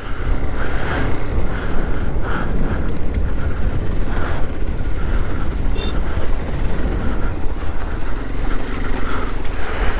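Hero XPulse 200 single-cylinder motorcycle engine running steadily while riding, with wind rumbling on the microphone.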